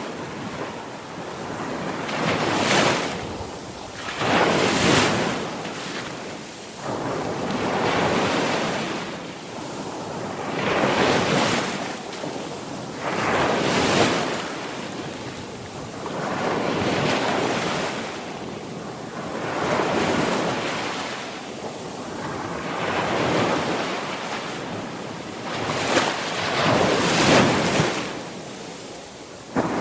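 Sea waves breaking and washing up a shore, each surge swelling and falling away about every three seconds.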